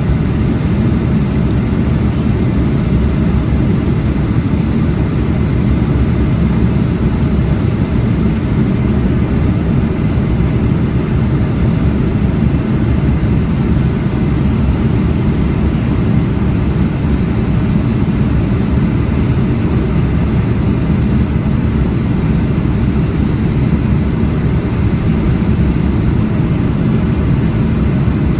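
Aircraft in flight: a steady, loud low rumble of engine and airflow noise, with no crack or bang anywhere in it.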